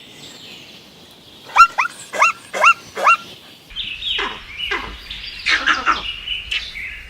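A dog yelping, five short high yelps in quick succession. A few seconds in the sound changes to a low hum with several noisier chirping or squawking animal calls.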